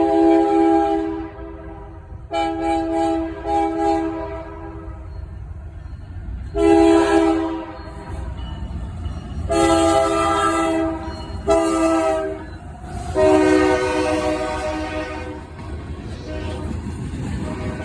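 Norfolk Southern freight locomotive horn sounding a series of long and short blasts, a chord of several notes, the grade-crossing signal. The low rumble of the approaching train runs beneath and grows toward the end.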